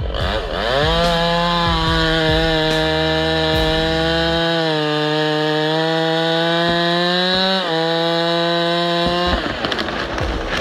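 A chainsaw revs up to high speed about half a second in and runs at a steady, high pitch, which shifts slightly as it cuts. Near the end it lets off. There is low thumping in the first few seconds.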